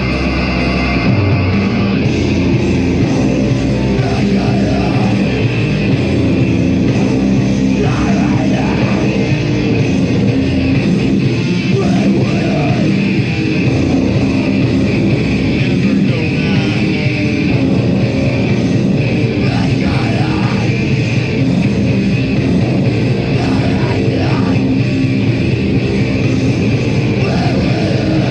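Heavy metal band playing live and loud: distorted electric guitars, bass and drums in a dense, unbroken wall of sound, the heavy bottom end easing off about a second in.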